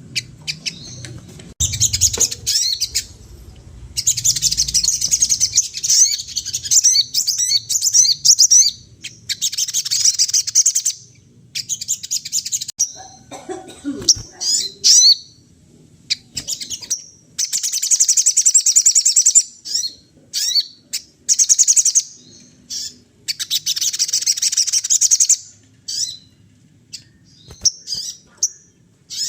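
Sogon songbird singing in loud, rapid, high-pitched chattering phrases of one to three seconds, broken by short pauses, as it mimics the calls of other birds.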